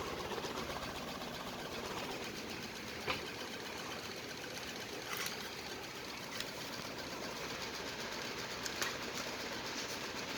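Ventisol Wind commercial ceiling fan running steadily: a continuous fast mechanical whir, with a few short clicks over it.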